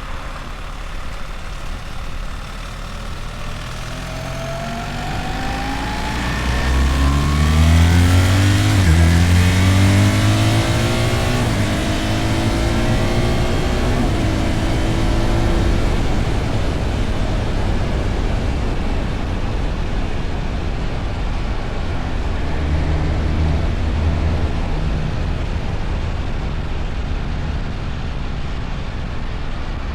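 BMW R1300 GS motorcycle's boxer-twin engine accelerating, its pitch climbing for several seconds and dropping about nine seconds in at an upshift, then settling to a steady cruise under a constant rushing noise.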